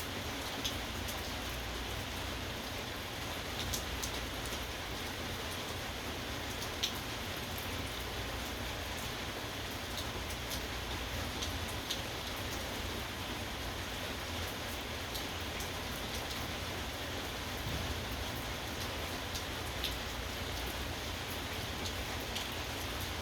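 Steady rain falling, a constant patter with now and then a single louder drop tapping close by.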